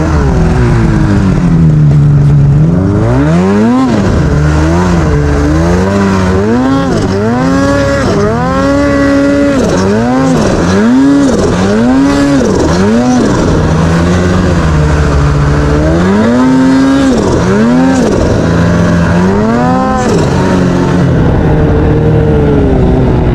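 Mountain snowmobile engine revving up and down again and again as the rider works the throttle, with a steadier stretch at first before the repeated rises begin.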